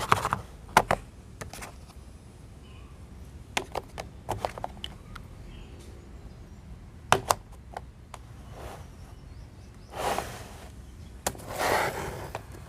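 Scattered sharp clicks and knocks at irregular intervals, with two brief rushing swells near the end.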